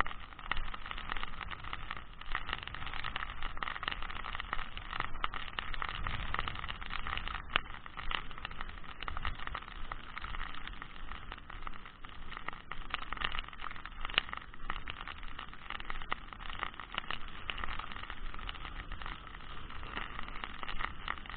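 Strong wind gusting over the microphone in heavy rain: a steady rough rushing with low rumble and constant crackle.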